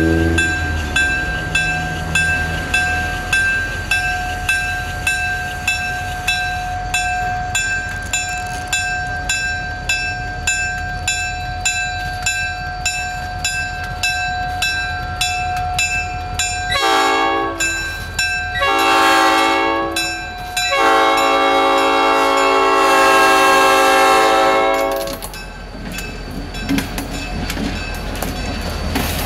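A diesel locomotive approaches with a bell ringing about twice a second over its engine rumble, then sounds its horn three times, two short blasts and a long one. As it passes, the passenger cars roll by with wheels clicking over the rail joints.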